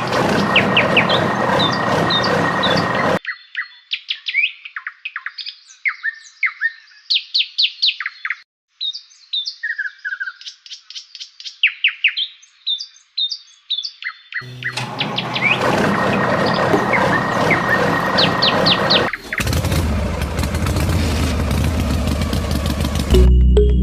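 Small birds chirping and twittering in quick short calls, with two stretches of a louder steady hum full of overtones that cut in and out abruptly, and music starting near the end.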